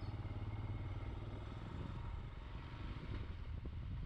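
Motorcycle engine running steadily under way, a low, even engine hum with road and wind noise.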